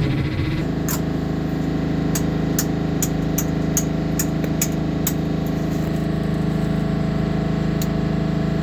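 An engine settling from a rough start into a steady, even running hum about half a second in. A series of sharp clicks sounds over it in the first half.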